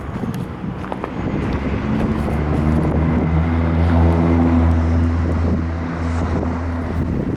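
The Ford Cargo 1723's Cummins 6.7-litre six-cylinder diesel engine running. It rises to a louder, slightly higher note in the middle, then settles back.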